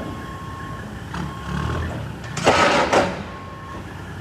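A truck's engine running with a low rumble, and one loud burst of noise lasting about half a second, about two and a half seconds in.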